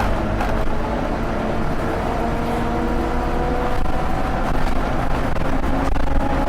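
Scania OmniLink single-deck bus's diesel engine and driveline running under way, the pitch rising slowly as it gathers speed, then shifting near the end.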